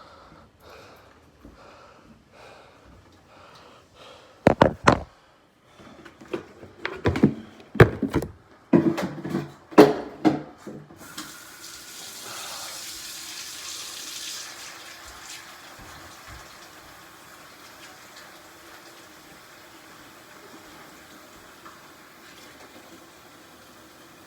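A few loud knocks and clatters of a container being handled, then water poured or running steadily into a cat's water bowl, strongest for the first few seconds and then running on more quietly.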